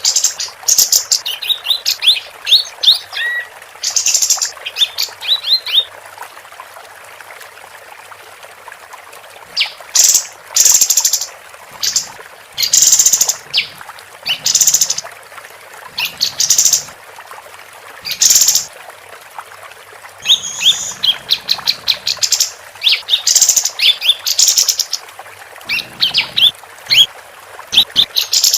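Female kapas tembak songbird singing busily in runs of quick, high chirps and louder clustered calls, with a pause of a few seconds about a quarter of the way in. A steady faint hiss lies under it.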